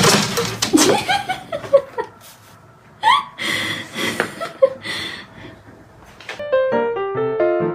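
Laughter in quick runs of falling syllables, two bursts, then a light piano-like tune starts about six seconds in.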